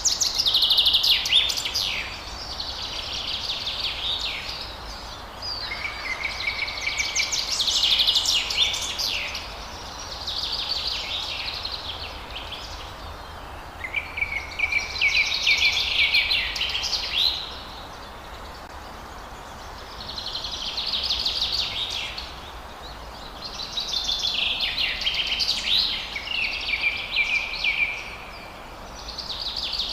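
Forest songbirds singing: high, rapid trilling song phrases of two to three seconds each, repeated about every four seconds with short pauses, over a steady background hiss.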